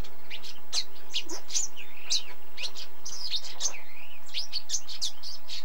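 Several birds chirping and twittering over one another, a quick, busy run of short high calls and down-slurred notes.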